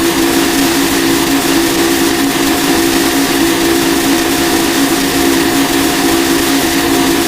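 Harsh noise music: a loud, unbroken wall of static-like noise with steady droning hum tones underneath.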